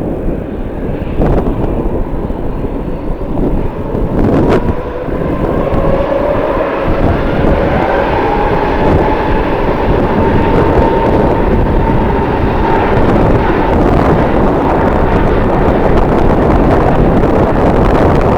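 Jet airliner's engines heard as it passes, a whine sliding in pitch and then levelling off over a steady noise that grows louder, with strong wind buffeting the microphone.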